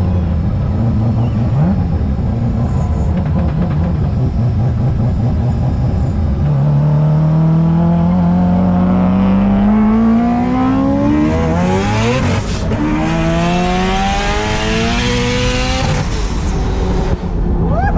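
Mazda 26B four-rotor rotary engine of an RX7, heard from inside the car, running steadily at low revs, then accelerating hard. Its note rises through a gear, breaks at a gearchange about twelve seconds in, and climbs again before the driver lifts off near the end.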